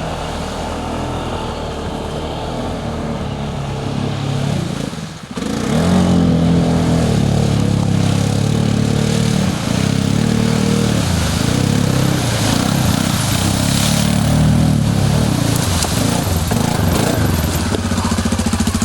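ATV engine running under changing throttle. It drops off briefly about five seconds in, then comes back louder, its pitch rising and falling as the throttle is worked.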